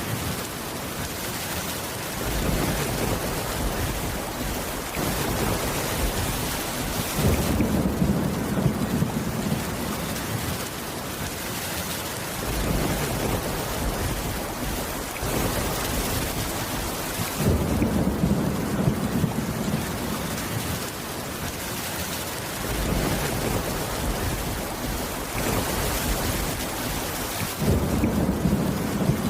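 Steady heavy rain with thunder rumbling in low swells, three times about ten seconds apart.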